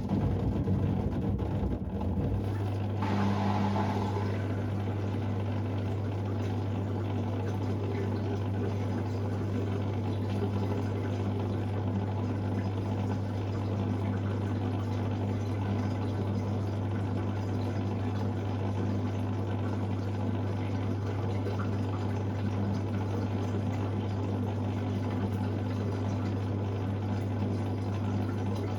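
Hoover Sportswear 1300 washing machine's drain pump starting abruptly and then running with a steady hum as it pumps out water.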